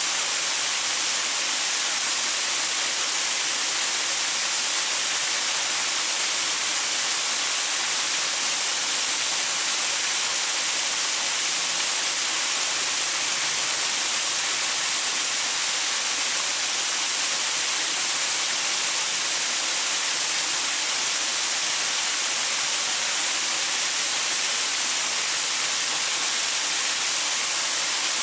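Waterfall pouring over rocks: a steady, unchanging rush of water, mostly a bright hiss with little low rumble.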